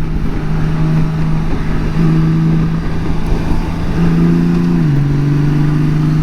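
2018 Honda Gold Wing's flat-six engine running under way in sport mode: a steady engine hum under heavy wind rush. Its pitch steps down once, about five seconds in.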